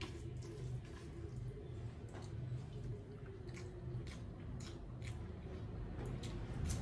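Close-up eating sounds: chewing with scattered soft, wet mouth clicks as rice and chicken curry are eaten by hand, with fingers mixing the rice on the plate, over a steady low hum.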